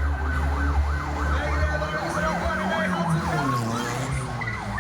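A siren yelping rapidly up and down, about three sweeps a second, over an old car's engine running, whose pitch drops about three seconds in.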